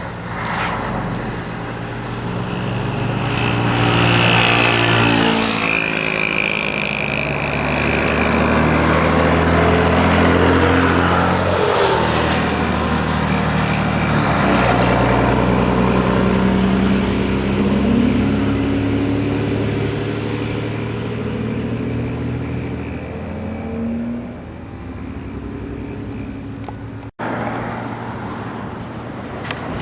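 Diesel engine of an old Scania bus with CMA Flecha Azul bodywork driving past, the engine note shifting in pitch as it comes and goes. An abrupt cut near the end leads into another bus passing.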